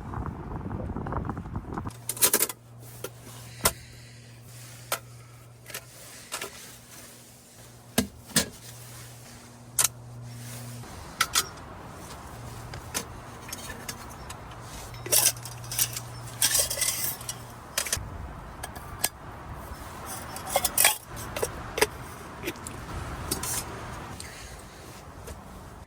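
Clinks and clatters of metal cookware and utensils being handled, many sharp knocks scattered throughout, over a steady low hum that breaks off and resumes.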